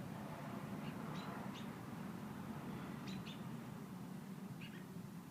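Small bird chirping: short, high chirps in ones and twos, about half a dozen in all, over a steady low hum.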